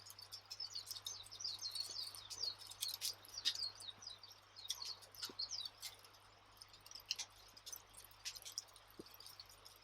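A wood fire crackling with scattered sharp pops, over a steady background of small birds chirping and twittering, busiest in the first few seconds.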